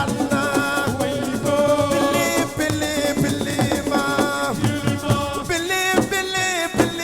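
Assiko band music: drums and a rattling shaker under a held, pitched melody line.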